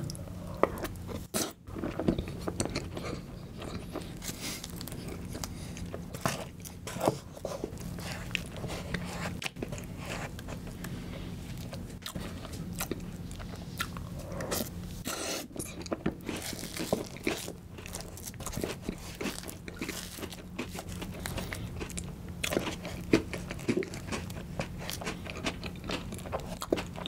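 Close-miked eating of milk-softened Oreo icebox cream cake: wet chewing and lip smacking with many short clicky mouth sounds. A faint steady low hum runs underneath.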